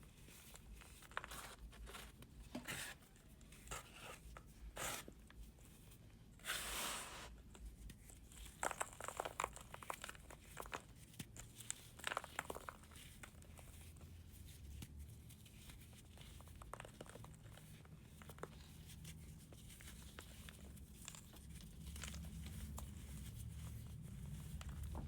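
Dry, brittle material crunching and crumbling, close up, in scattered crackles with a dense run of crunches in the middle, thinning out toward the end.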